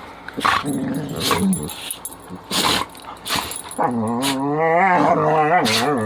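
Dogs sneezing and 'talking': a few short, sharp sneezes, then from about four seconds in a long, wavering, warbling grumble that rises and falls in pitch.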